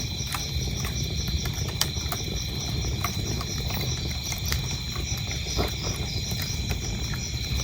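Wood fire crackling, with irregular sharp pops over a low steady rumble, while crickets chirp in a fast, even rhythm.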